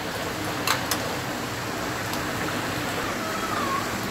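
Garlic frying in butter and soybean oil in a karahi: a steady sizzle, the garlic now turned brown. Two light clicks of a steel spatula against the pan come close together a little under a second in.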